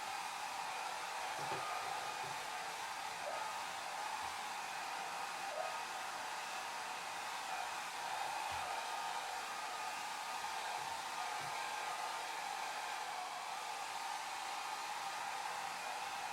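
Hair dryer blowing steadily: an even, unbroken hiss with a slight hum near its middle.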